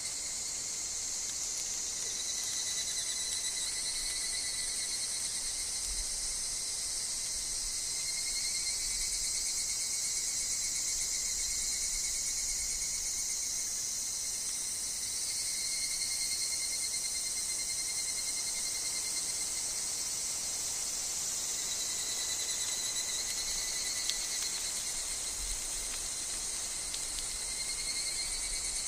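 Higurashi (evening cicadas) calling in an overlapping chorus. Their high trills swell and fade over several seconds above a steady, lower-pitched insect trill.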